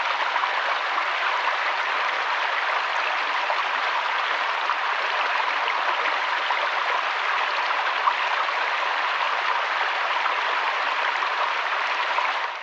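Flowing river water, a steady even rush with no breaks, fading out right at the end.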